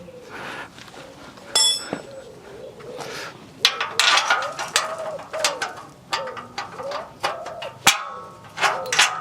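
Clanks and knocks of a heavy steel power steering box being handled onto a vehicle chassis. One sharp metallic clang rings on about a second and a half in, and another sharp knock comes near the end. Through the second half runs a series of short rising-and-falling calls, about two a second.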